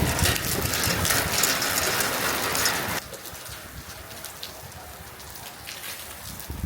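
Rain falling and pattering on surfaces, a loud, dense hiss that drops abruptly to a quieter patter about three seconds in.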